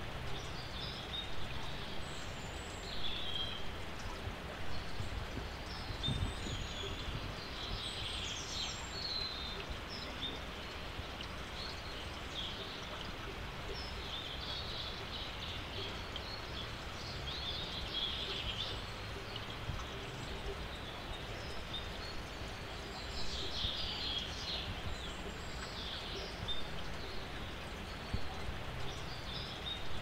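Small birds chirping and singing on and off in short high phrases, over a steady low outdoor background noise.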